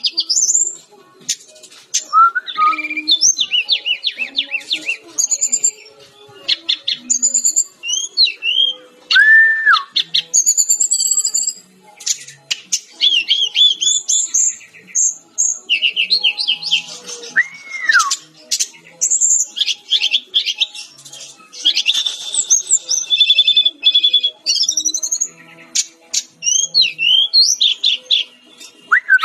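Fulvous-chested jungle flycatcher singing a fast, varied song of chattering and trilled phrases mixed with clear rising whistles, including two long arched whistles.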